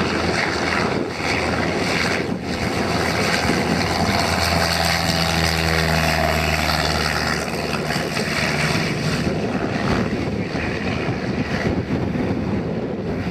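Cessna 180's six-cylinder engine and propeller at full takeoff power, a steady drone that weakens about nine seconds in as the plane climbs away, under heavy wind buffeting the microphone.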